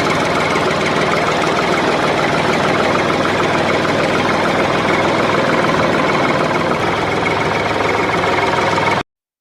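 Small motor of a DIY toy tractor running steadily with a buzzing whine. It cuts off suddenly near the end.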